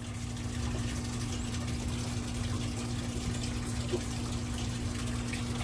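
Water running steadily through newly repressurised household plumbing, with a steady low hum beneath it.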